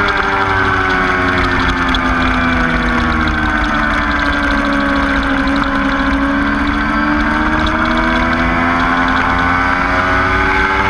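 Motorcycle engine running continuously on a racetrack. Its pitch sinks slowly over the first half, then climbs steadily again as it picks up revs.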